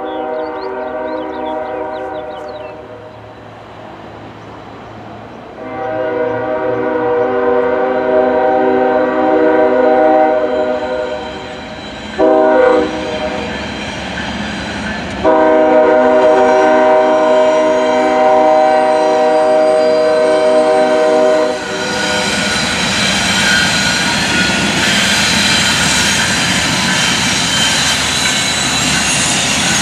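Diesel freight locomotive's air horn sounding the grade-crossing signal: two long blasts, a short one, then a final long one. After the last blast the lead Norfolk Southern locomotives pass close by, their engines running and the wheels clattering on the rails.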